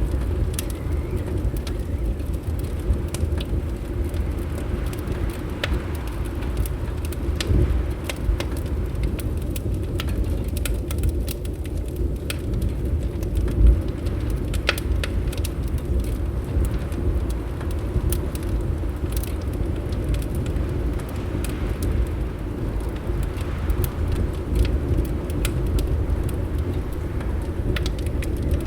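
Wood fire crackling in a fireplace: scattered sharp snaps and pops over a steady low rumble of wind.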